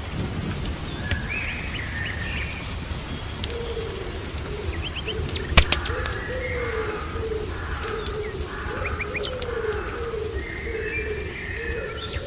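Ambient mix of birdsong over a crackling fire and rain. A low wavering call repeats from about a third of the way in, with higher chirps above it. A steady rush of rain runs underneath, with sharp fire crackles throughout and a loud pop near the middle.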